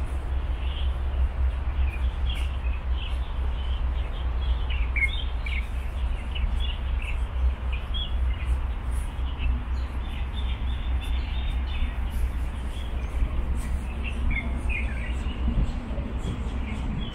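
Small birds chirping in short, high calls, scattered through most of the stretch with a lull partway through, over a steady low rumble.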